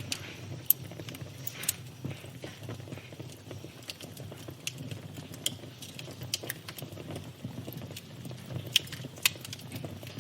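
Wood fire crackling in a fireplace: irregular sharp pops and snaps over a low steady rumble of the flames, with the loudest pops about a second in and twice near the end.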